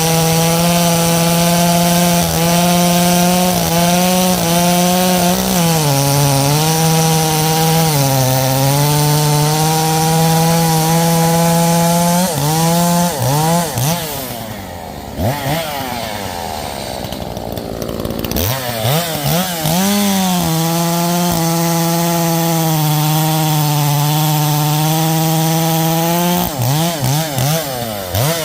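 Echo CS-590 Timberwolf 59.8 cc two-stroke chainsaw at full throttle cutting wood, its pitch sagging briefly as the chain loads up in the cut. About halfway through the engine note drops and wavers for a few seconds before returning to full speed, and near the end the throttle is blipped quickly several times.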